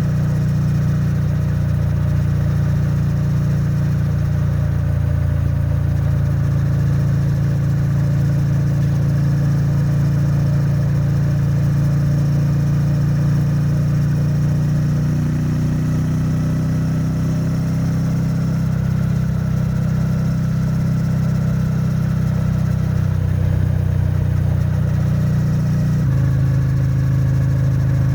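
Triumph Bonneville T100's 900 cc parallel-twin engine and exhaust running at a steady highway cruise, held to moderate revs during its running-in period. The engine note shifts slightly about two-thirds of the way through and changes pitch again near the end as the throttle or gear changes.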